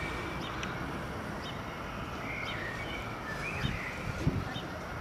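Small birds chirping in short repeated calls over steady outdoor background noise, with two soft low bumps near the end.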